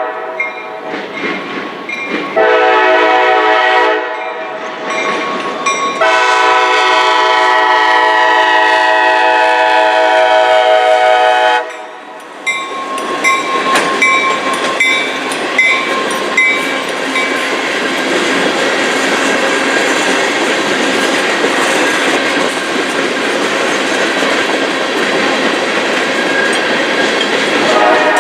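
Train horn sounding: a short blast about two seconds in, then a long blast that drifts slightly lower in pitch. After that the train rolls past with a steady rumble and clickety-clack of wheels over the rails, and the horn sounds again near the end.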